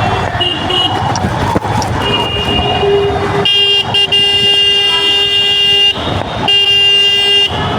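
Vehicle horns honking in jammed traffic over engine and road noise. A few short toots come first, then one horn is held long and steady from about halfway, breaks off briefly, and is sounded again near the end.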